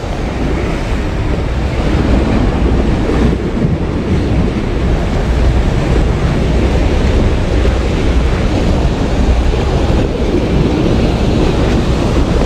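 Sea waves washing steadily, with wind buffeting the microphone and a heavy low rumble.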